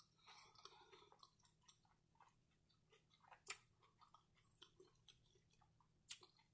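Faint mouth sounds of a person chewing a mouthful of cheesy shrimp nachos, with soft wet clicks and two sharper clicks, about halfway through and near the end.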